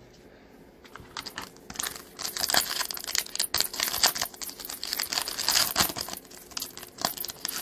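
Foil wrapper of an NBA Hoops trading-card pack being crinkled and torn open by hand: dense crackling and tearing that starts about a second in and keeps on.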